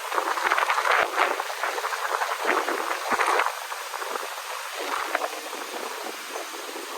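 Wind buffeting the microphone: a rough rushing hiss that surges and eases in gusts, strongest in the first half.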